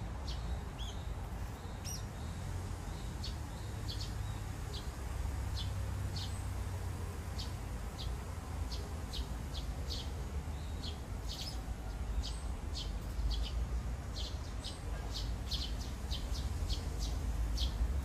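Birds chirping: a long run of short, high chirps, coming more often in the second half, over a low steady rumble.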